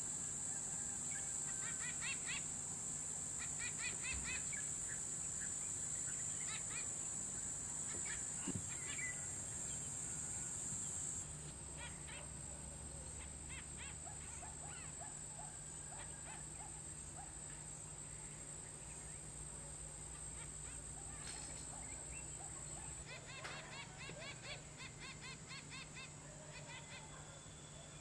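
Wild bird ambience: many short chirps and calls from several birds over a steady high-pitched insect drone, with a faint low hum underneath. The calls come thickest near the start and again near the end.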